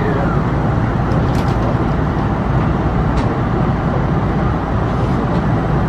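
Steady low rumble and hiss of an electric commuter train heard from inside the front of the car, with a short falling whine right at the start and a few faint clicks.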